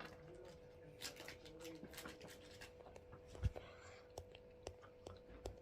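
Faint handling noises from hands: scattered small clicks and rustles, with one sharper knock about three and a half seconds in, over a steady low hum.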